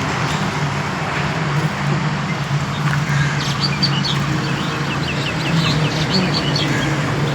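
Birds chirping, a quick run of short high notes in the middle few seconds, over a steady background rumble with a low hum.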